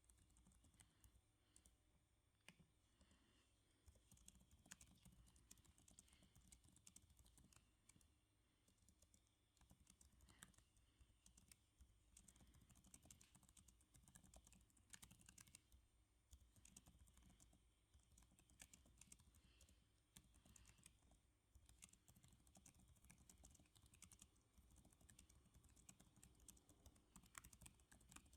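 Computer keyboard typing, a quick irregular patter of key clicks in runs with short pauses between them, very soft.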